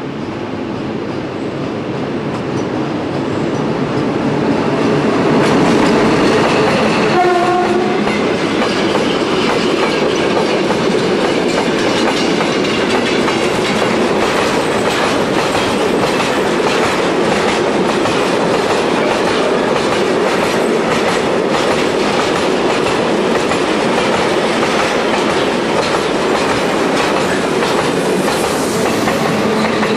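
Freight train hauled by an electric locomotive rumbling and clattering over a steel girder viaduct, with the hopper wagons' wheels clacking steadily on the rail joints. A short horn blast sounds about seven seconds in, and near the end the electric pusher locomotive at the rear rolls past.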